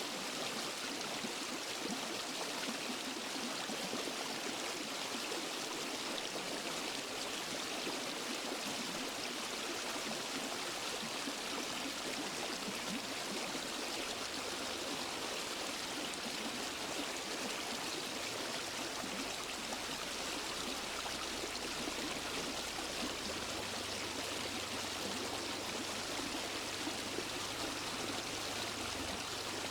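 Waterfall and stream water rushing steadily, an even, unbroken splashing hiss with no changes.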